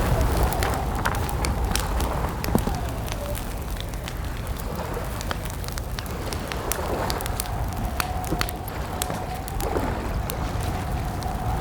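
Campfire crackling with many sharp pops over low wind noise. A thin, steady whistling tone runs through it, dipping and wavering in pitch a few times.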